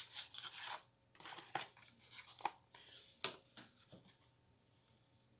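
Tarot cards being shuffled and handled: papery rustling in short bursts, with a few sharp taps, the loudest a little after three seconds in.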